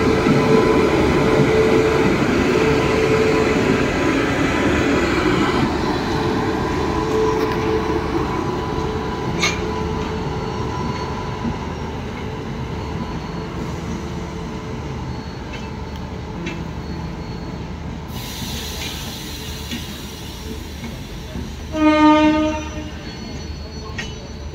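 Electric locomotive and LHB passenger coaches of an express train rolling past on the rails, the running noise slowly fading as the train draws away. Near the end, one short, loud train horn blast.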